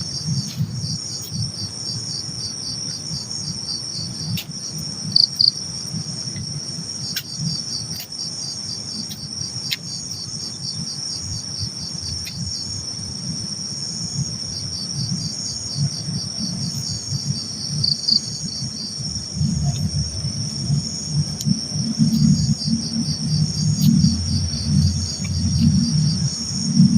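Night insects, crickets among them, chirping without a break: two steady high trills overlaid with a rapid pulsed chirp. A low rumble underneath grows louder over the second half.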